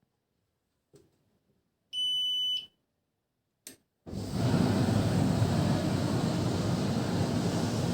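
Tumble dryer set going: one short, high electronic beep about two seconds in, a click, then from about four seconds in the dryer starts running with a loud, steady noise and low rumble.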